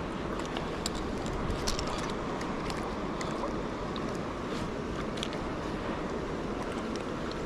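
Steady rush of flowing river water, with scattered faint clicks and ticks over it.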